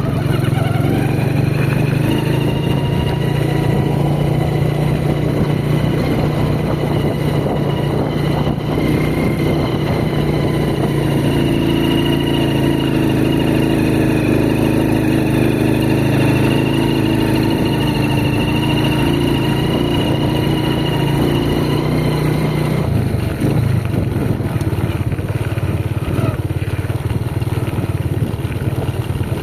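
Motorcycle engine running steadily while riding. About 23 s in, its pitch shifts as the speed changes.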